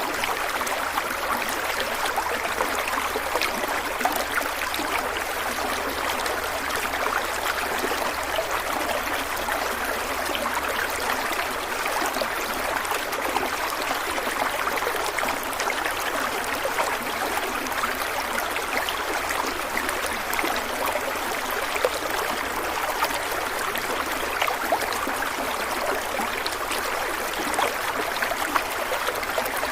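Stream water flowing and trickling steadily over rocks, a continuous babbling rush with small splashes throughout.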